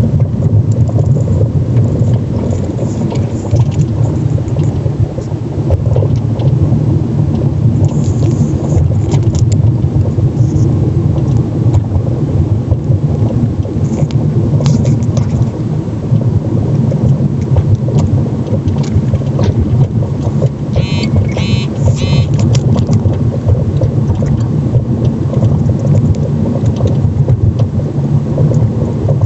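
Car driving on a rough road: steady road rumble with knocks from the front strut top mount, a rigid mount on spherical plain bearings with no vibration isolation. A small rattle runs underneath, and there is a short run of high metallic ticking around two-thirds of the way through.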